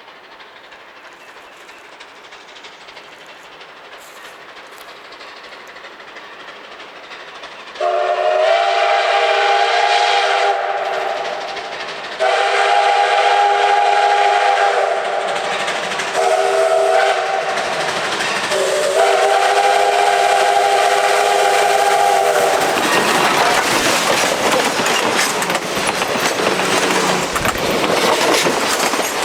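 Texas State Railroad No. 30 steam locomotive approaching and sounding its five-chime steam whistle in the grade-crossing pattern, long, long, short, long, a chord of several notes. The locomotive and train then pass close by with a loud rush of rolling noise.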